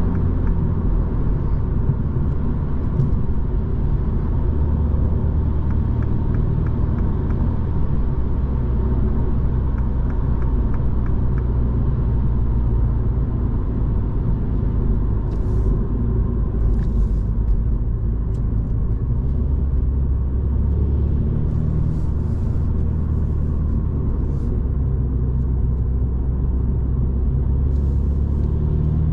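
Cabin sound of a Mini Cooper S F56 with a 2.0-litre turbocharged four-cylinder, driving at road speed. Its steady engine drone sits over tyre and road noise, and the engine note shifts down a couple of times as the car slows.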